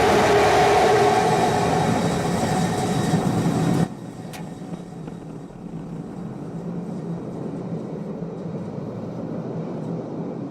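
Starship's Raptor rocket engines firing during the landing burn: a loud, steady roar that cuts off abruptly about four seconds in, leaving a quieter low rumble.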